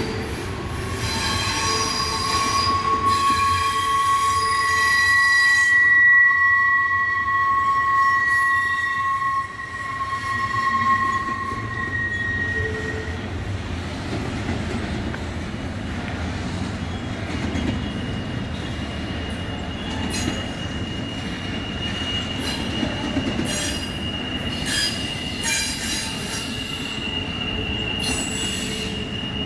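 Miniature live-steam ride-on train running over the rails with a steady rumble of wheels. For the first dozen seconds it gives a long high two-tone squeal, and from about the middle on a single higher squeal, typical of wheel flanges grinding through curves.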